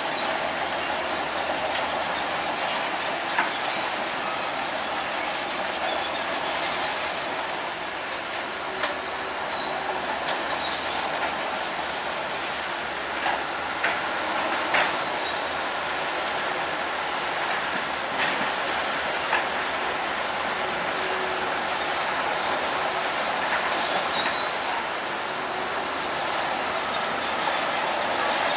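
Crawler bulldozer working: a steady clatter and squeal of its steel tracks, with a few sharp metallic clanks scattered through.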